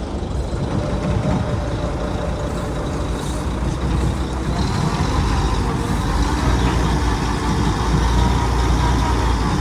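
Loaded dump truck's engine revving hard in reverse as it strains to back out of mud it is sunk in up to the frame, growing gradually louder, with a fainter higher whine over the rumble.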